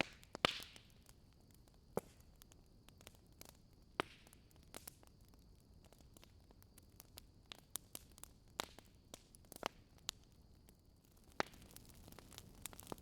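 Fireplace fire crackling: faint, sharp pops and snaps at irregular intervals, the loudest about half a second in, over a light steady hiss.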